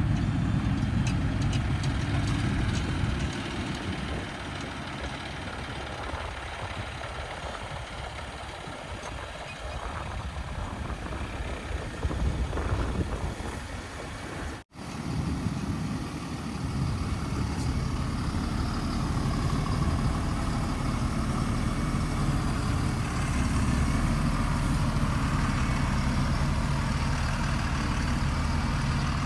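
Heavy diesel engines running at a loading site, steady, with a low engine hum throughout. The sound drops out abruptly about halfway through at a cut, then the engine running resumes and grows louder.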